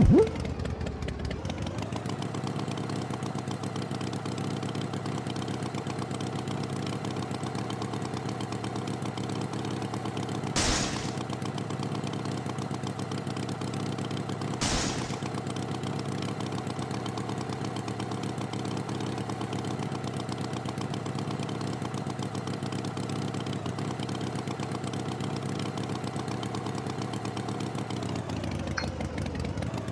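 Tractor engine running steadily at idle after revving up about a second in, with two short bursts of noise near the middle and a change in pitch near the end.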